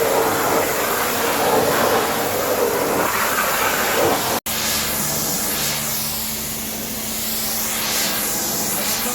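Pressure washer jet spraying water onto a truck: a steady hissing rush with a faint steady hum beneath it, dropping out for an instant a little over four seconds in.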